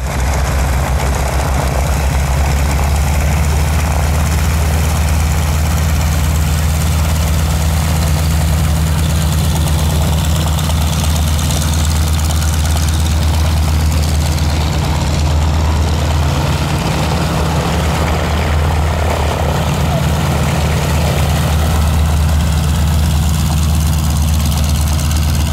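Propeller aircraft engine running steadily at low power, a loud, even low drone with little change in pitch.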